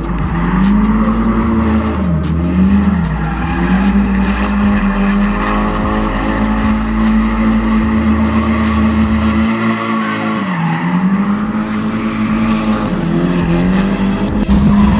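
Nissan S13's turbocharged SR20DET four-cylinder held at high revs through a drift, tyres squealing and skidding. The revs dip briefly about two seconds in, again after ten seconds and once more near the end.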